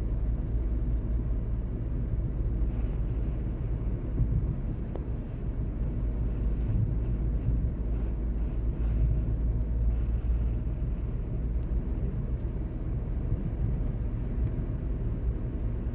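A car driving at a steady speed: a continuous low rumble of road and engine noise with no sudden events.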